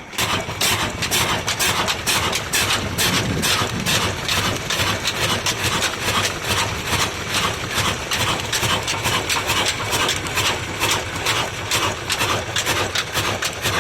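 Old black diesel engine running at a steady speed, with a rapid, regular knocking beat from its firing strokes.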